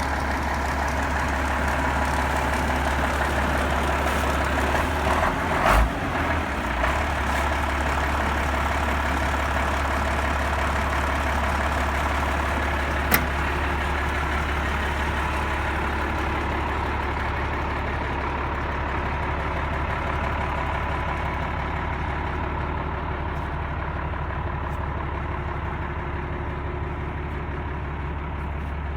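Ford L8000 grain truck's Ford diesel engine idling steadily. A few short thumps come about five to seven seconds in, and a single sharp click about thirteen seconds in.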